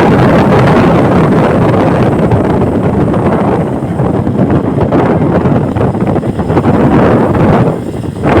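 Wind buffeting the microphone: a loud, uneven rumbling rush that dips briefly near the end.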